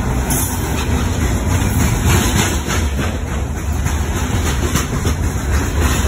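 Freight train's open-top hopper cars rolling past close by: a steady, loud rumble of steel wheels on rail, with repeated sharp clicks as the wheels cross the rail joints.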